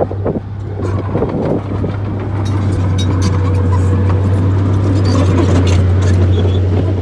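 Bulldozer diesel engine running with a steady low drone that grows slightly louder, with scattered clicks and clanks over it.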